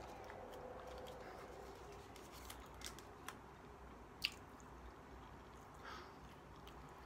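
Faint chewing of a bite of chicken burrito, with a few soft wet mouth clicks and one sharper click a little past the middle.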